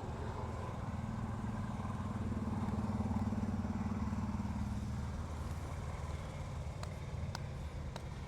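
A motor vehicle's engine running, swelling as it passes and fading after a few seconds. A few faint sharp clicks near the end.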